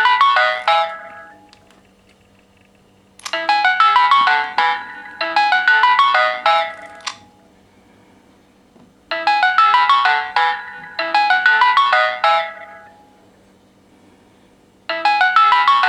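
A mobile phone ringtone: a quick run of bright, bell-like notes played as two short phrases back to back. A pause of about two seconds follows, and the pattern repeats.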